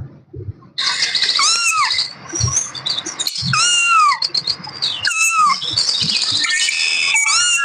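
Kittens mewing repeatedly: a run of high, rising-and-falling mews, several overlapping.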